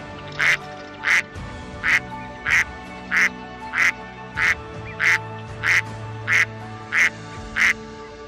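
A duck quacking over and over in an even rhythm, about one quack every two-thirds of a second, some thirteen quacks in all, over steady background music.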